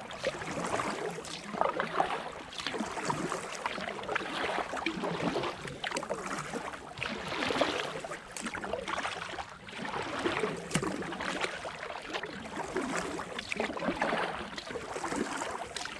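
Kayak paddle strokes: the blades dip and splash in the river again and again, every second or two.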